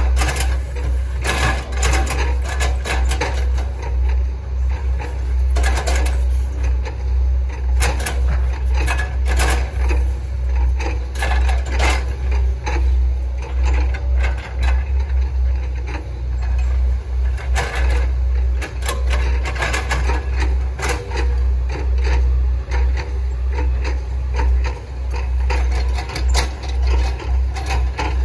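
Hitachi ZAXIS 110 excavator's diesel engine running steadily under load, with frequent irregular knocks and cracks of oil palm trunk being chopped and crushed by the bucket.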